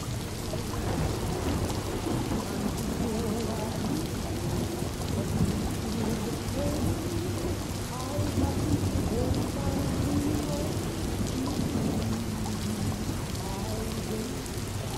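Steady rain falling with distant thunder rumbling, over a steady low hum.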